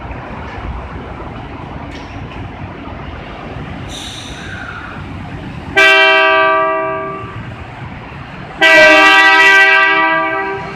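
Two loud, ringing signal tones sounded at an Osaka Monorail 2000 series train at the platform, about three seconds apart. Each starts suddenly and fades over a second or two, over steady station noise.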